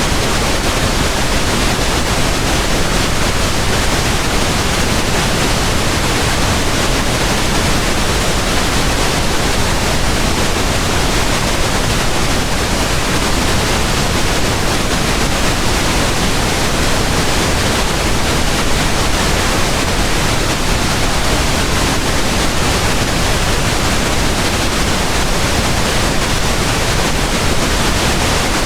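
Steady pink noise: an even, unchanging hiss spread over the whole range, without any rhythm or change.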